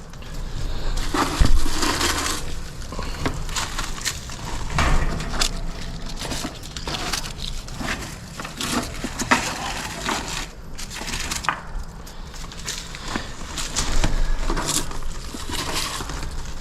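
Debris being pulled out of the bottom of an outdoor air-conditioner condenser unit by hand, with a continual irregular crackling and crunching of dry material being grabbed and crushed.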